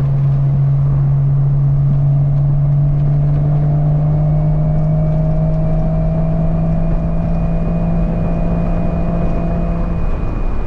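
1997 Porsche 986 Boxster's 2.5-litre flat-six droning steadily through an aftermarket cat-back exhaust at a light cruise. Its pitch creeps up slightly, then the drone drops away near the end, over steady low wind and road rumble from the open top.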